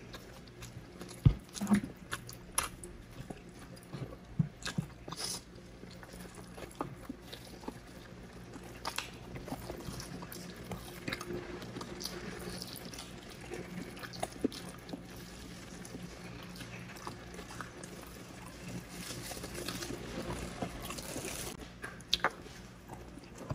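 Close-miked eating: chewing, biting and wet mouth smacks from two people eating grilled chicken, skewered pork barbecue and rice by hand, as irregular short clicks and smacks.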